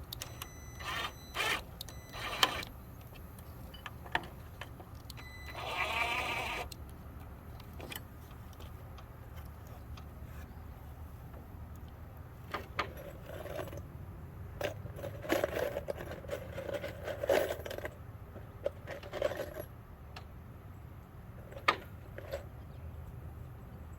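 Screws being loosened and backed out of the gate: scattered metallic clinks and knocks of screws and tools, with short whirring runs of a driver, the longest about six seconds in and a cluster of shorter ones in the middle.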